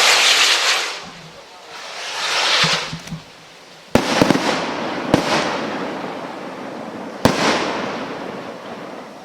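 Gold brocade firework shells being fired: two swelling whooshes in the first three seconds, then four sharp bangs about four, four and a half, five and seven seconds in, each trailing off in a fading hiss as the bursts hang and fall.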